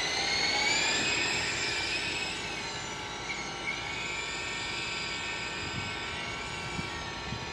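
Battery-powered motor and rotor of a large Extreme S-8G RC helicopter spinning up, a rising whine that levels off about a second in, then wavers up and down in pitch as the throttle changes.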